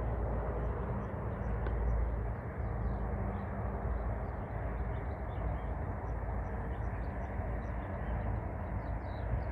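A steady low rumble with small birds chirping repeatedly over it.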